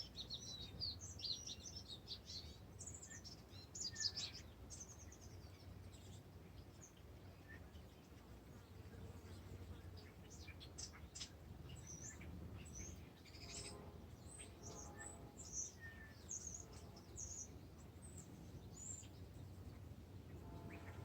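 Wild birds singing, a tangle of short, high chirps and trills. The song is thickest in the first few seconds, thins out, then picks up again about halfway through, over a steady low hum.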